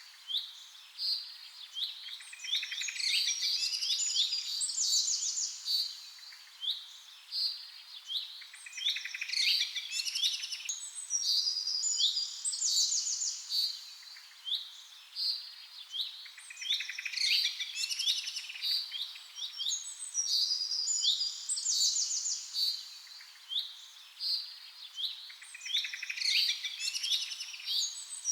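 A chorus of many birds chirping, trilling and calling over each other in high-pitched notes, swelling and fading in waves every few seconds.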